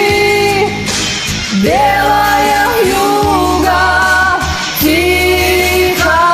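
Music: a woman singing long held notes that slide between pitches, over a backing track with a steady low bass.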